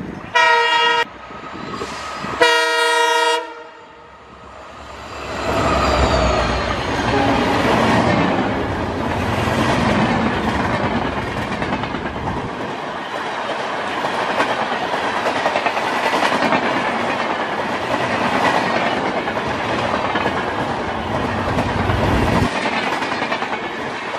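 Two multi-tone horn blasts from an approaching WDP-4D diesel locomotive, the second longer, then the locomotive and its passenger coaches running past at speed. The low rumble of the locomotive drops away about twelve seconds in, leaving the steady noise of the coaches' wheels on the rails.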